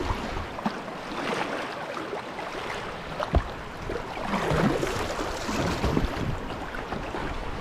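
Whitewater kayak paddling: paddle strokes splashing irregularly over the steady rush of river water, with one sharper splash about three and a half seconds in. Wind buffets the microphone.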